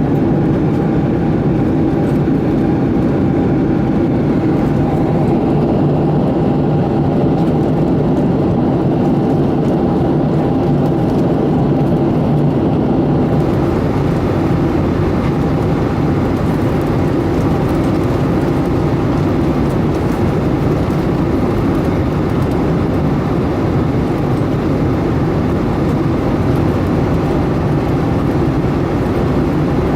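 Steady cabin noise of a Boeing 757-200 in climb, heard inside the cabin: a constant drone of engines and rushing air with a low steady hum. About halfway through, the hiss grows slightly brighter.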